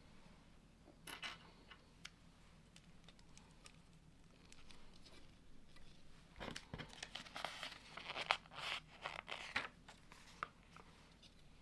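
Lego pieces being handled and pressed together: a run of small plastic clicks and scrapes, busiest in the second half, with a dull knock about six and a half seconds in.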